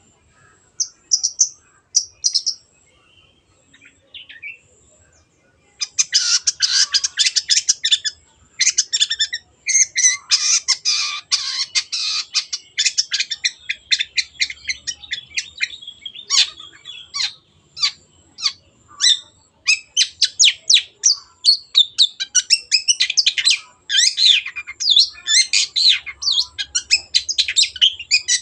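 Long-tailed shrike (cendet) singing: a few short high calls, a pause of a few seconds, then from about six seconds in a fast, unbroken run of short high notes.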